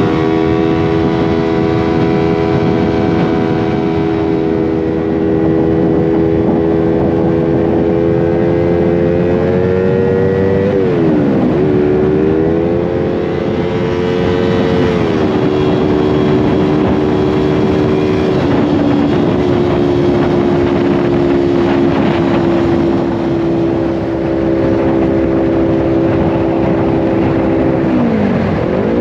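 Motorcycle engine running at a steady cruise, heard from on the bike with wind and road noise. Its note dips and comes back up a few times, with the sharpest dip near the end.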